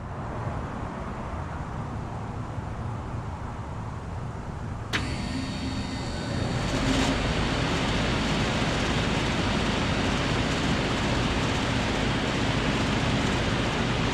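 1984 BDP (Bryant) 5-ton three-phase heat pump starting up in heat mode: a sharp click about five seconds in as it switches on, then a steady running hum that gets louder about two seconds later as the unit comes up to speed.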